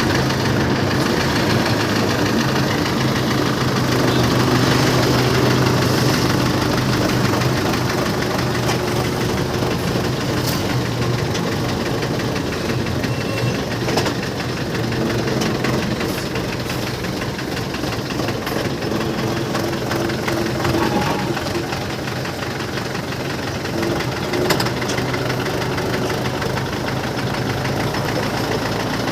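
An engine running steadily at idle, with a few sharp clicks or knocks over it.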